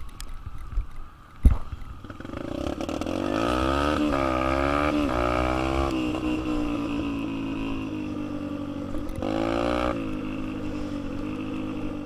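Dirt bike engine running and revving, its pitch rising and falling with the throttle and twice winding up strongly. A sharp knock comes just before the engine note rises.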